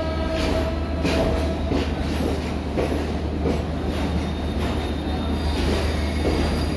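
Passenger coaches of the East Coast Express pulling out of the station and rolling past, wheels clacking unevenly over the rail joints under a steady rumble, with a brief wheel squeal in the first couple of seconds.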